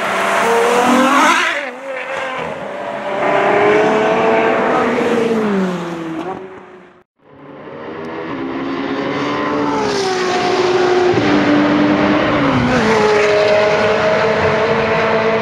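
Ferrari F12 Berlinetta's 6.3-litre V12 running hard at high revs. Its pitch climbs and falls, stepping down several times with gear changes. The sound cuts out briefly about seven seconds in, then builds up again.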